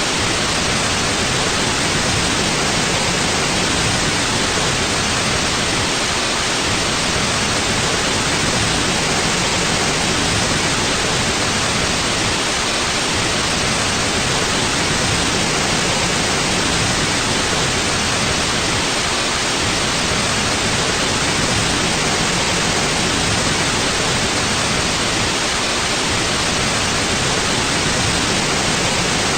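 Steady white noise: an even, unchanging hiss at constant level, a sleep soundscape.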